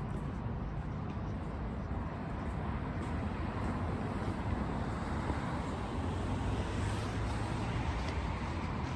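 City road traffic noise: a steady rumble of vehicles, growing a little louder toward the end.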